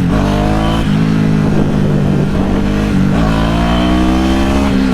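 2009 Ducati Hypermotard 1100S air-cooled V-twin under hard acceleration on a test ride. The engine note climbs, drops back at a gear change about a second in and again about three seconds in, then climbs again.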